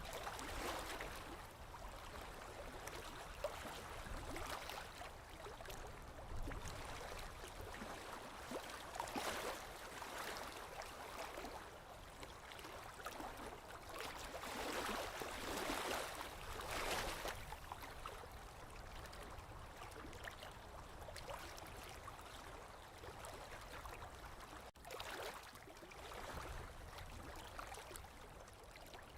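Small lake waves lapping against the shore, in a continuous splashing wash that swells and eases every few seconds.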